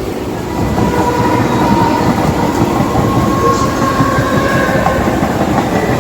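Mumbai suburban electric local train running along the track: a steady rumble and rattle of wheels and carriages, with a faint thin whine throughout.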